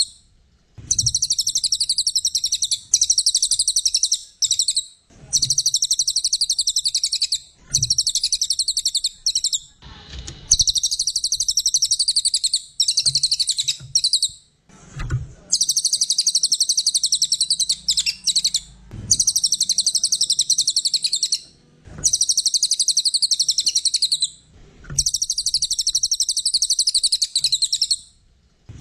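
A cililin songbird singing hard in a rapid, high-pitched chattering trill, delivered in phrases of about two seconds separated by short pauses, about ten phrases in all. Faint low thuds come at the starts of some phrases.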